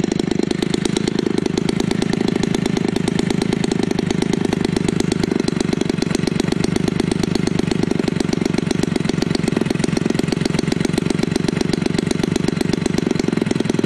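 Homelite 30cc single-cylinder two-stroke engine, converted for a model airplane and turning an 18x8 propeller, running at a steady speed with rapid, even firing pulses and no revving.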